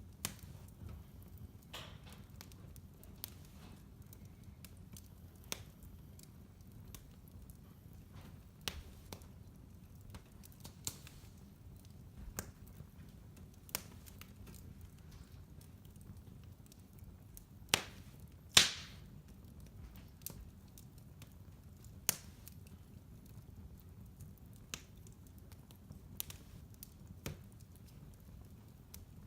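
Wood fire burning in a fireplace: a low steady rumble under sharp, irregular crackles and pops, the loudest pair of pops about 18 seconds in.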